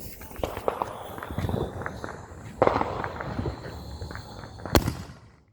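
Fireworks going off: scattered pops and crackles, a denser flurry about halfway through and one sharp, loud crack near the end.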